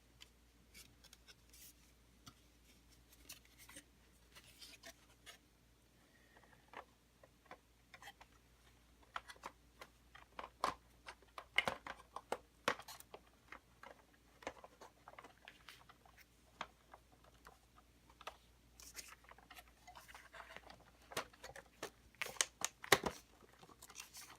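Light clicks and knocks of the plastic housing of a Eufy RoboVac 11 being handled and pressed together during reassembly, scattered at first, busier about halfway through and again near the end.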